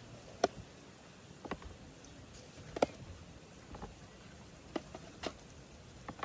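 Scattered sharp clicks and light knocks, about one a second at uneven spacing, over a low background hiss.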